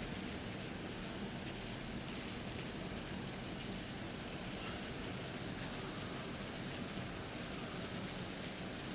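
Steady rain falling during a thunderstorm, an even hiss with no breaks.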